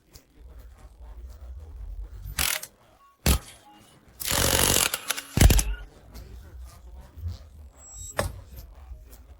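Workshop tool noise: a few sharp knocks and a hissing burst lasting about a second, over a low rumble.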